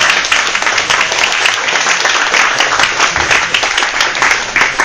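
A group of people applauding, many fast overlapping claps.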